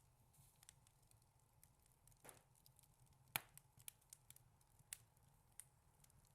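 Wood fire crackling faintly in a fireplace: scattered small ticks and snaps, with one sharper pop about three seconds in, over a low steady hum.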